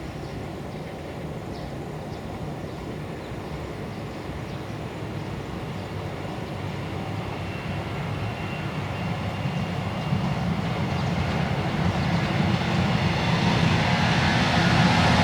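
JNR 115 series electric multiple unit approaching along the line, its running rumble and a faint steady whine growing steadily louder.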